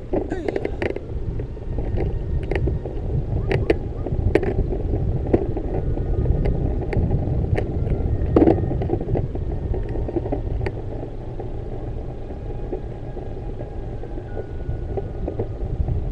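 Riding a bicycle: a steady low rumble of wind and road noise on the microphone, with scattered sharp clicks and rattles.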